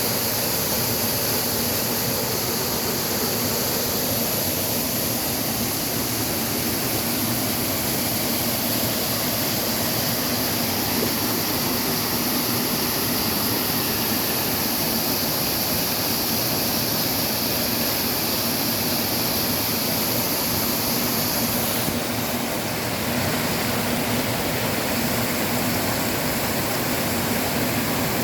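Waterfall rushing, a steady loud roar of falling water; the high hiss eases a little about three quarters of the way through.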